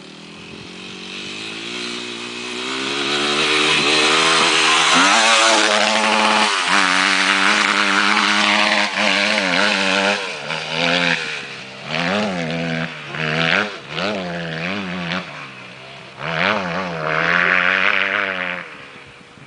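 Motocross bike engine, louder over the first few seconds, then held at high revs. From about halfway it rises and falls in pitch again and again as the throttle is worked, and it fades near the end.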